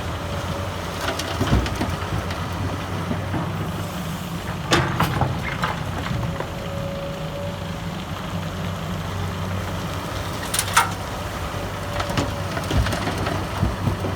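Excavator's diesel engine running steadily at work, with a few sharp clanks of the bucket and dumped laterite, about five seconds in and twice more near the end.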